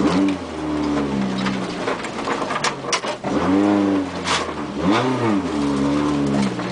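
Car engine revving hard, heard from inside the cabin while driving on a dirt track. The revs climb and fall back in three surges, with a few sharp knocks along the way.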